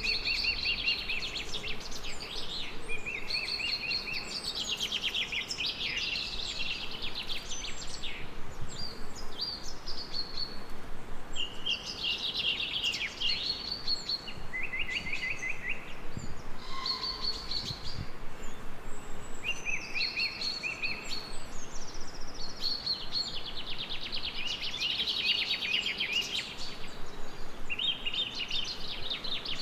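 Songbirds singing in short, repeated trilled phrases that come and go throughout, over a steady background hiss.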